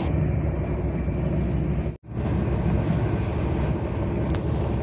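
Steady low rumble of a moving express train heard from inside a passenger coach, the running noise of the wheels on the track. It cuts out abruptly for a moment about two seconds in, then carries on unchanged.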